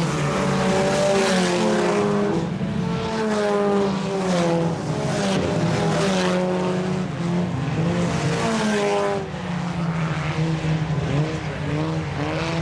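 Several four-cylinder sport compact race cars running laps on a dirt oval, their engines overlapping and rising and falling in pitch as they pass.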